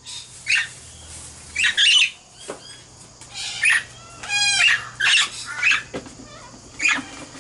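Princess parrots calling: a run of short, harsh squawks about once a second, with one longer, clearer pitched call about four and a half seconds in.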